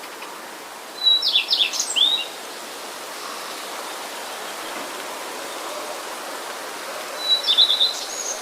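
A small bird singing two short chirping phrases, about a second each, one near the start and one near the end, over a steady rushing noise.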